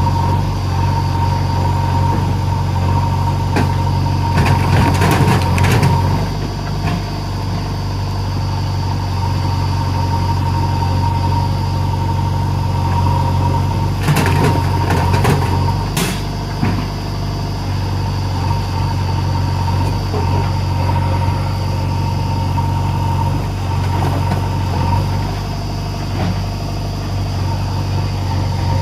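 Diesel engine of a JCB 3DX backhoe loader running steadily, with a constant high whine above the engine hum. There are two short spells of clattering, about five seconds in and again about fifteen seconds in.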